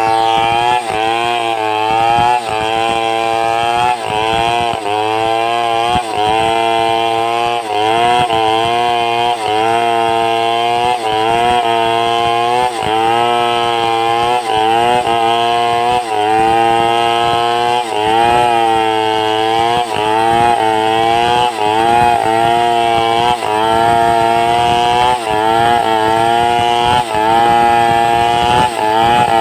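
Two-stroke chainsaw running under load, ripping a log lengthwise into boards. The engine pitch dips and recovers every second or two as the bar is pushed through the wood.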